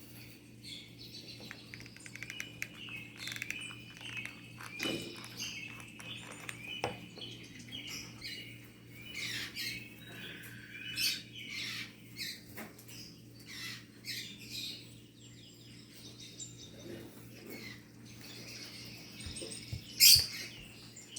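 Pet lovebirds chirping in many short, high calls, over a steady low hum. A single sharp click sounds near the end.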